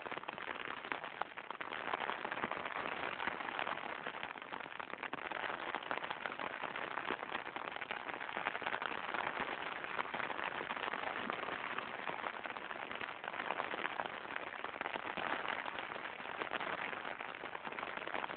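Steady rain falling, a dense even patter of fine crackling drops without a break.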